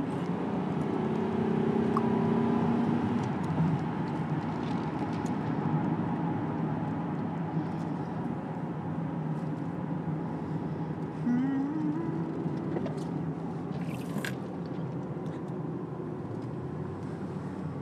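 A car driving, with steady engine and road noise heard from inside the cabin. About eleven seconds in, the engine's pitch rises briefly as it picks up speed.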